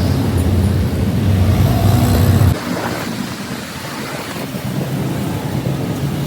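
A steady low motor hum that cuts off abruptly about two and a half seconds in, leaving a fainter, rougher noise.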